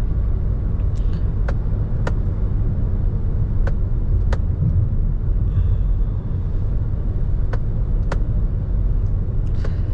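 Steady low road and tyre rumble inside the cabin of a moving Toyota Innova Hycross, with a few faint, sharp ticks at irregular intervals.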